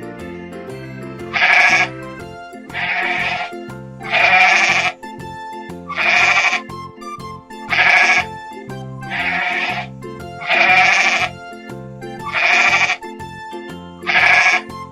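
A sheep bleating, nine calls about a second and a half apart, over background music with a steady beat.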